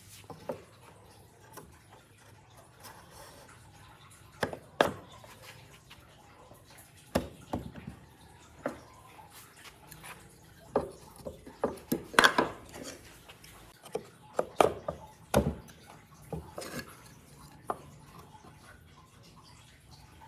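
Scattered, irregular knocks and clinks of hard objects being handled and set down, with quiet gaps between them.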